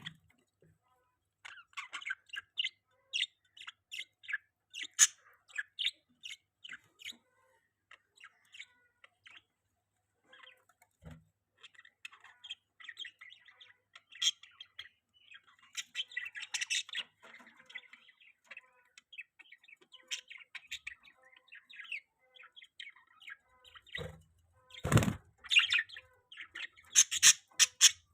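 Budgerigars chirping in quick, short, high notes, thinning out for a few seconds about a third of the way in and getting busier near the end. A single dull thump sounds shortly before the end.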